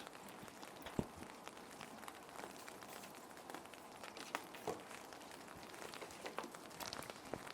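Soft crinkling and rustling of plastic sheet protectors being handled, with scattered small ticks and one sharper tap about a second in, over a steady hiss of gentle rain.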